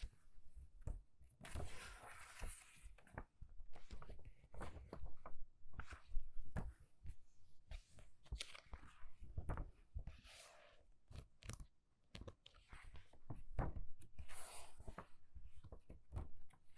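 Quick page turning through a book: a run of short paper rustles and flips with soft taps, and a few longer swishes of a page being swept over, about two seconds in, near the middle and near the end.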